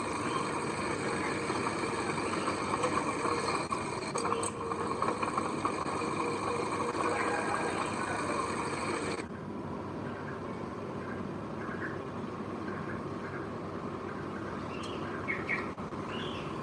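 Diesel engine of heavy earthmoving machinery running steadily. About nine seconds in it suddenly drops to a quieter, duller running sound, and a few short chirps come near the end.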